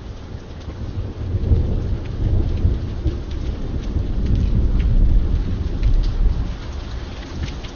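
Steady rain with individual drops ticking sharply, under a long, deep rumble of thunder. The thunder swells over the first second or two, peaks around the middle and eases toward the end.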